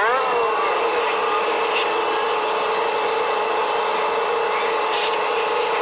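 Electric blower running steadily with a constant whine, blowing water off a car. Its pitch rises as it spins up right at the start.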